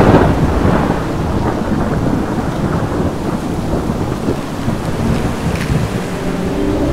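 Thunderstorm: thunder rumbling, loudest at the start just after a sharp crack, over steady rain.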